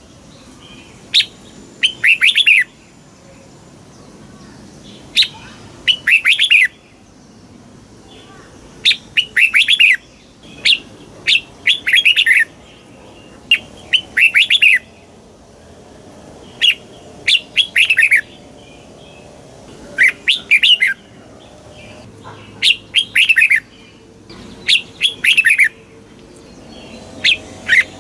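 Red-whiskered bulbul singing: short, loud phrases of quick warbled notes, often in pairs, repeating every two to three seconds with brief pauses between.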